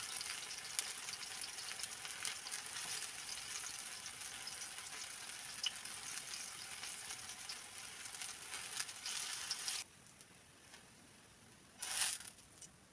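Plantain slices sizzling in hot oil in a nonstick frying pan: a steady hiss with scattered crackles and pops. The sizzle cuts off suddenly a little before ten seconds in, and a brief louder burst comes near the end.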